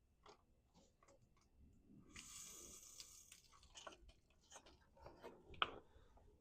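Near silence, with faint scattered clicks and handling noises and a brief rustle about two seconds in.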